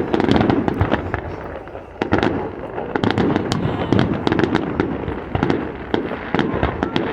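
Competition fireworks display: a dense, continuous barrage of crackling pops and bangs, with a fresh surge of bursts about two seconds in.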